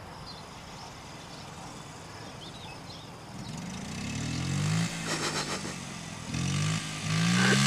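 Honda Z50R mini dirt bike's small single-cylinder four-stroke engine, faint at first, then revving up about three seconds in, easing off, and revving up again near the end.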